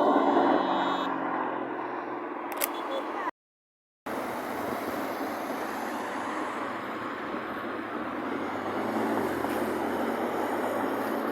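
A car engine's sound fading away after a rev, with a short sharp click about two and a half seconds in. After a brief break, steady street traffic noise continues with no distinct engine note.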